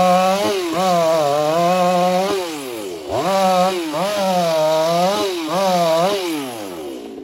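Two-stroke chainsaw revving high in repeated runs, its pitch sagging and dropping back between them, then winding down near the end.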